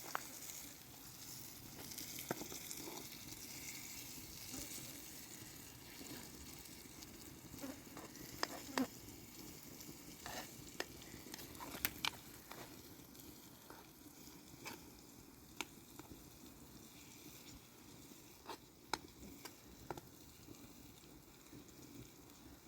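Food frying in a pan: a faint, steady sizzle with scattered crackles and pops.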